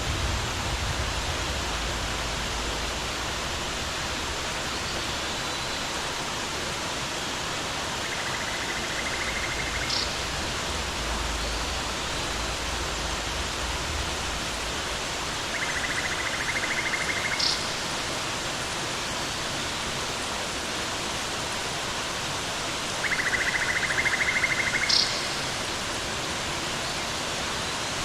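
Steady rushing roar of a waterfall. Three times, about seven seconds apart, a rapid buzzy trill lasting about two seconds sounds over it, each ending in a short high chirp.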